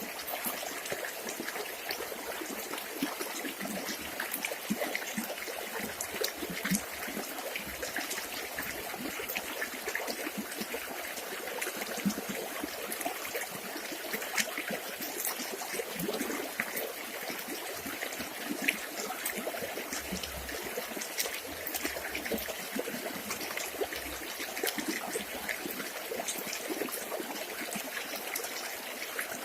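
Village river water running and trickling over stones in a steady babble, with many small splashes.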